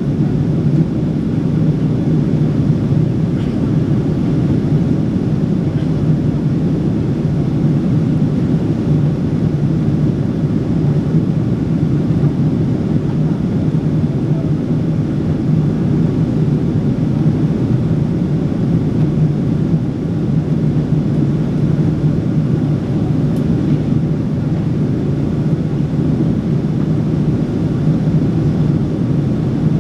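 Steady cabin drone of a Boeing 777-300 in flight: engine and airflow noise heard from inside the cabin, even and unchanging, with its weight in the low range.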